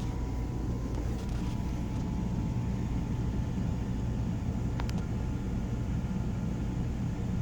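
Steady low mechanical hum and rumble, with a faint click a little under five seconds in.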